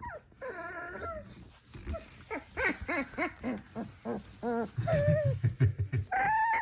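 18-day-old puppies vocalizing while they play-fight: a string of short, squeaky rising-and-falling yips and baby growls, with a longer call near the end. These are the puppies' first attempts at growling in play.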